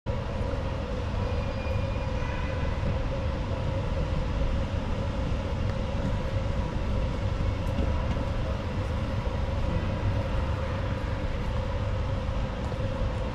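China–Laos Railway train running, a steady low rumble with a held humming tone that does not change.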